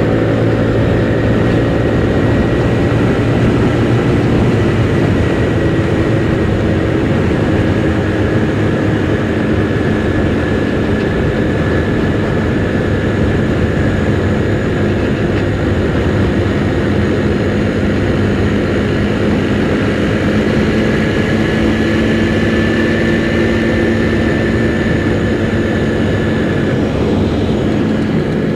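Kymco Super 8 scooter engine running steadily while riding, its pitch drifting slightly, under heavy wind rush, heard from inside the rider's helmet.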